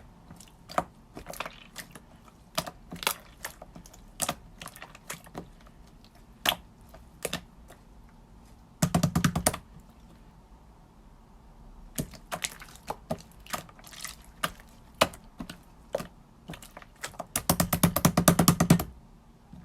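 Irregular sharp clicks and taps, like typing, with two quick rattling runs of rapid clicks, one about nine seconds in and one near the end.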